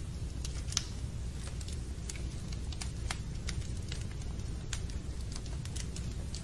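Fireplace crackling: irregular sharp pops and snaps over a steady low rumble of burning.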